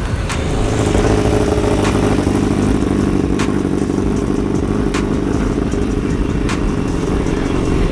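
A motor vehicle engine running steadily and loudly, with a few faint sharp ticks about every second and a half.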